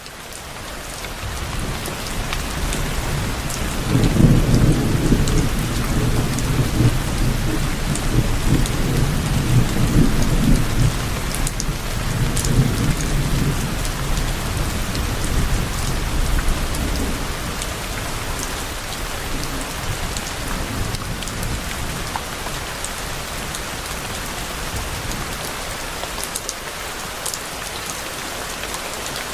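Steady rain falling, fading in over the first couple of seconds, with a low rolling rumble of distant thunder from about four seconds in that dies away after about seventeen seconds.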